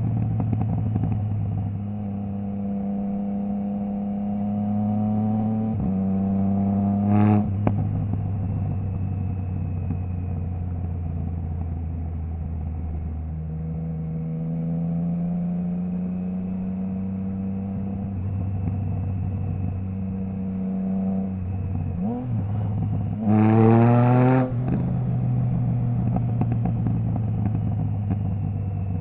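Triumph Trident 660's inline three-cylinder engine through a Zard stainless full exhaust with the baffle removed, running at mostly steady revs while riding. Twice the engine note rises sharply in a short, loud burst of acceleration, once about a quarter of the way in and a louder one later on.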